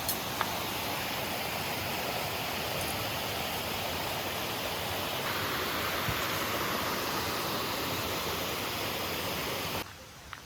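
Mountain valley stream rushing over rocks: a steady rush of water that shifts brighter about halfway through and cuts off suddenly near the end.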